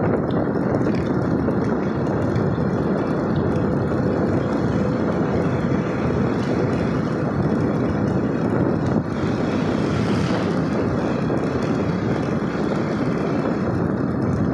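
Steady vehicle running noise, a dense even rumble that carries on without a break.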